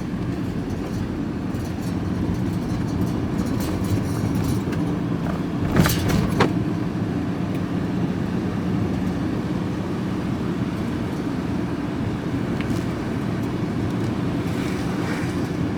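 Vehicle being driven, heard from inside the cab: a steady engine drone and road noise, with two sharp knocks about six seconds in.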